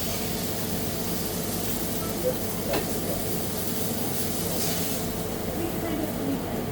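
Steady mechanical hum with hiss, and a single sharp click a little under three seconds in.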